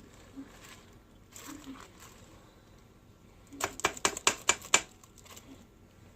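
A spoon knocking against the pot of a rice cooker during stirring, with a few light taps and then a quick run of sharp clinks a little past halfway.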